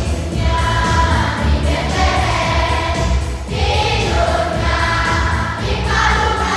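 Children's choir singing a Christmas song in Indonesian over backing music with a steady bass line.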